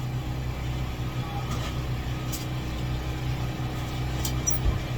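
Steady low machine hum, engine-like and unchanging, with a few light clicks and taps over it.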